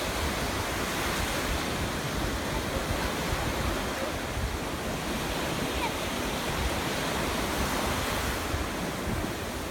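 Stormy sea surf: waves breaking and washing in a steady, dense roar, with wind buffeting the microphone.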